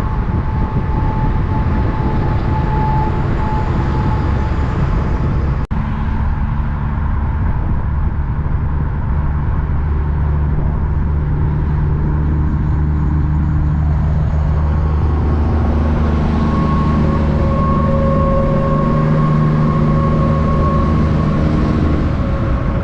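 Heavy truck engine running steadily with a low drone, broken by a short dropout about six seconds in.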